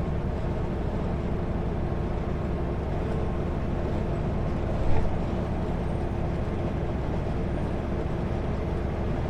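Kenworth W900L semi-truck cruising at highway speed, heard from inside the cab: a steady engine drone and road rumble with a constant hum, and one brief knock about five seconds in.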